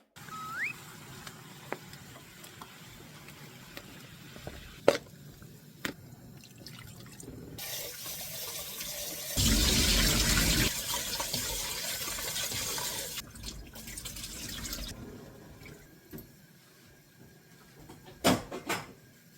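Tap water running into a sink, running hardest a little past halfway and stopping about three-quarters of the way through. A few sharp knocks come before and after it.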